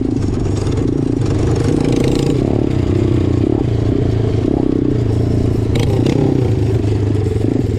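Small-displacement motorcycle engine running steadily, its pitch wavering slightly up and down.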